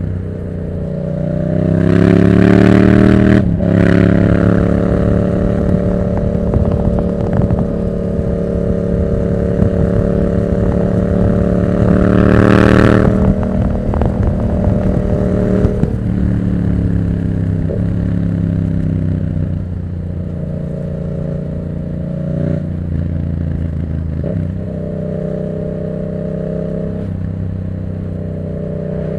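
Yamaha MT-07's 689 cc parallel-twin engine through a Black Widow exhaust with no dB killer, under way. It revs up and shifts gear about three seconds in, holds a steady pull, and is pushed hard again around twelve seconds in. After that it eases off and settles into a lower, steady run.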